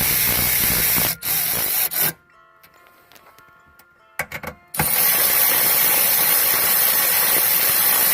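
Cordless power ratchet running as it drives bolts down, in two runs of about two and four seconds with a pause and a few short clicks between them.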